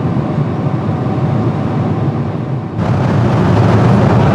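Steady cabin noise of a Boeing 747-400 airliner in cruise, a dense engine and airflow rush with a low hum. Nearly three seconds in it changes suddenly to a louder, hissier rush.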